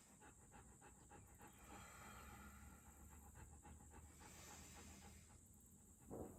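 Faint, rapid panting of a dog, a quick even rhythm of breaths, with one brief louder sound near the end.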